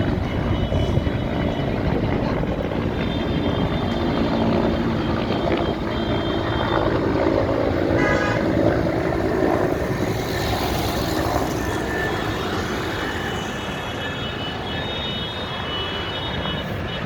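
Many motorcycle engines running together in a group ride, with horns tooting now and then.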